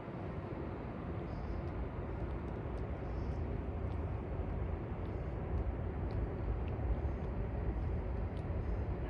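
Steady outdoor city ambience: a continuous low rumble with no distinct events.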